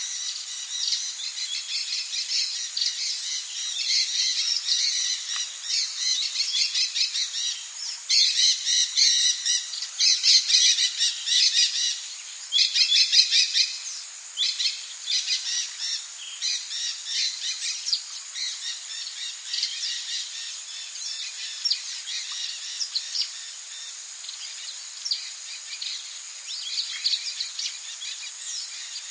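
Rainforest birds chirping and calling in rapid, dense runs, loudest and busiest from about a third of the way in to about halfway. Under them runs a steady high-pitched insect buzz.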